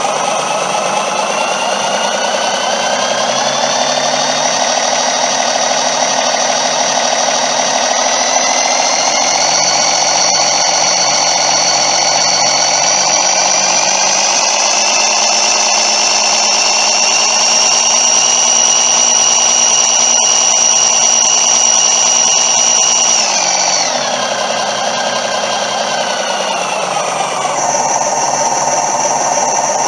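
Sampled Cummins N14 marine diesel engine sound played by an RC sound module through a small speaker: it revs up from idle over the first several seconds, holds steady at high revs, then drops back to idle a little before the end.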